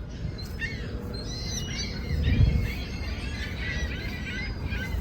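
Several birds chirping, short scattered calls and quick pitch sweeps throughout. A brief low rumble about two seconds in.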